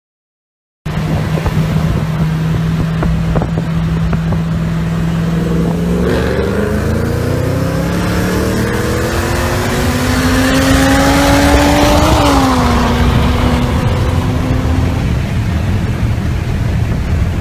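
A car engine heard from inside the cabin, starting about a second in: holding a steady note, then rising in pitch under hard acceleration for about six seconds until a gear change drops it, after which wind and road noise take over.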